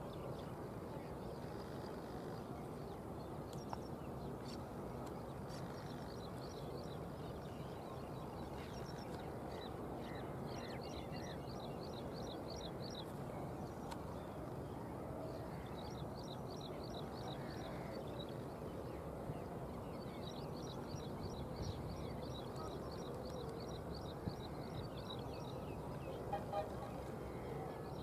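Steady faint outdoor background rumble, with several bouts of a small bird's rapid, high-pitched trilled call, each bout lasting a few seconds. A few faint clicks near the end.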